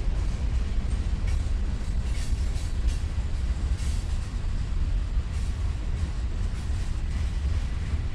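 Cars of a Norfolk Southern mixed freight train rolling slowly past, a steady low rumble of wheels on rail with a few faint higher clicks in the middle.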